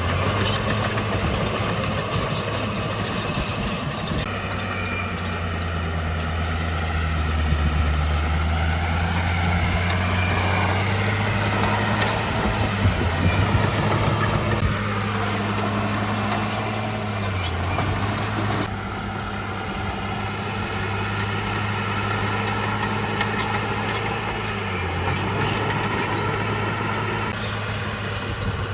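Heavy diesel engine of earth-moving machinery running steadily, its pitch dipping briefly a few times as the load changes. There are a few knocks about halfway through.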